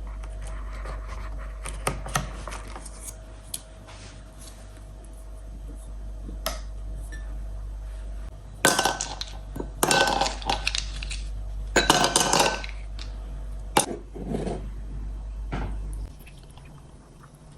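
Metal kitchen utensils clinking and clattering against dishes: scattered light taps at first, then three louder runs of clatter with a ringing metallic note about halfway through.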